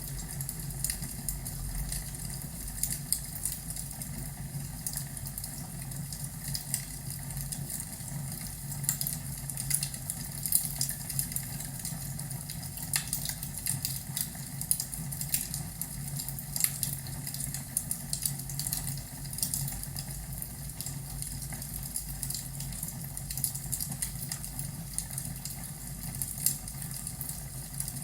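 Crackling fireplace: irregular small pops and crackles over a steady low rumble.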